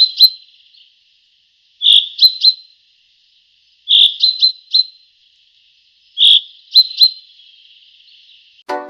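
Bird chirping calls, a short high burst followed by two or three quick rising chirps, repeated four times about two seconds apart.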